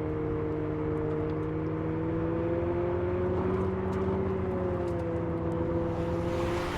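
Abarth 500e electric hot hatch driving at a fairly steady pace: a droning tone that drifts gently down and up in pitch over a low hum and road noise.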